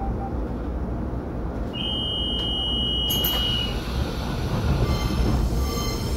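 Electric train running at a station: a steady low rumble, with a high steady tone lasting about two seconds beginning around two seconds in. In the last couple of seconds several thin high-pitched tones come in as the EMU3000 express approaches.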